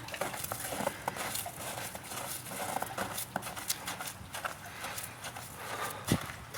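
Footsteps of a person walking on snow and ice, in a steady walking rhythm, with one heavier thump about six seconds in.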